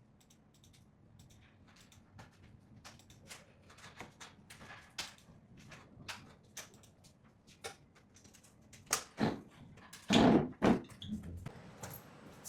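Scattered light clicks and taps, then a few heavier thumps about nine to eleven seconds in as a door is opened and shut.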